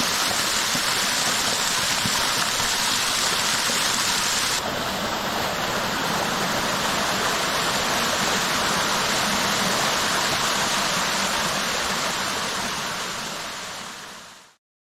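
Small mossy waterfall on a mountain stream, its water rushing and splashing steadily. About four and a half seconds in the sound changes abruptly to a slightly different mix, and it fades out near the end.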